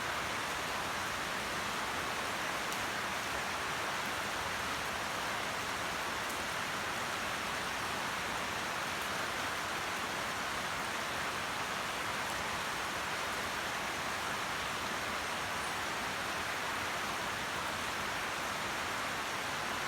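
Heavy rain falling steadily: an even, unbroken hiss with no letup.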